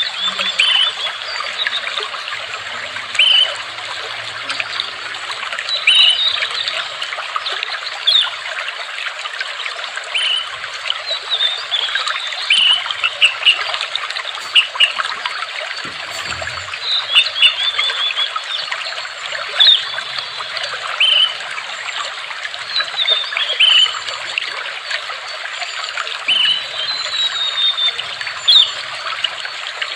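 Water trickling steadily, with small birds chirping over it: short chirps every second or two and now and then a quick run of notes.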